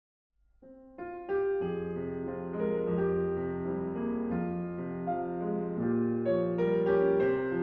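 Piano playing the slow introduction to an art song, a sequence of sustained chords with a melody above. It starts after a moment of silence, about half a second in.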